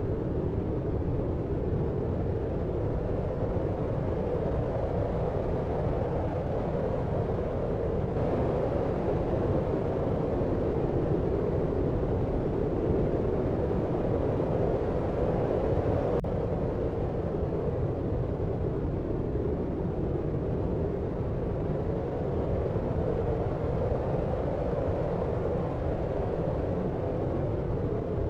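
Steady deep noise for sleep: an even, unbroken rumble weighted to the low and middle range, with little high hiss and no separate events.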